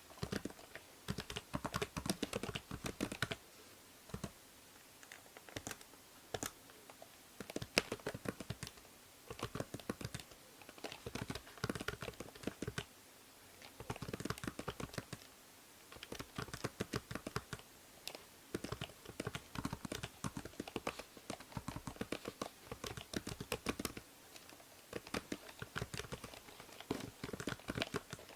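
Typing on a computer keyboard: quick runs of key clicks in bursts, broken by short pauses, over a faint steady hiss from the binaural microphone.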